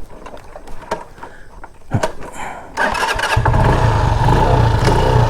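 Motorcycle engine, quiet with a few knocks at first, then about three seconds in picking up loudly and running hard with a low throb as the bike is ridden over a rough, broken road.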